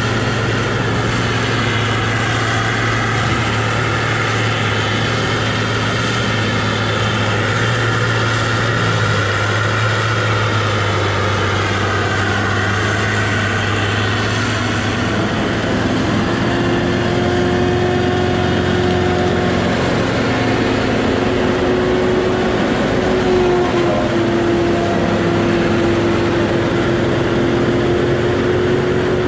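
Diesel engine of a Tigercat rubber-tired feller buncher running steadily under load, with a steady whine joining about halfway through.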